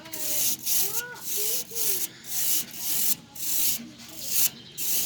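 A brush scrubbing caked dust off an air conditioner's condenser coil fins in quick, even back-and-forth strokes, about two to three a second.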